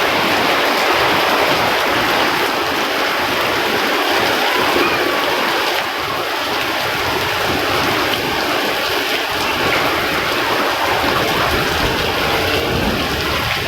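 Heavy rain pouring down, a loud steady rush of falling water.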